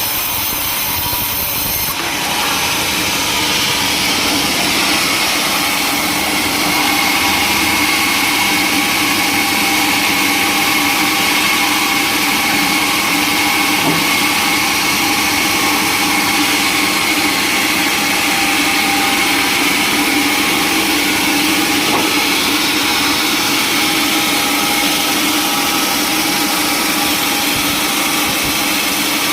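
Sawmill saw running steadily and cutting through wood, its sound shifting about two seconds in.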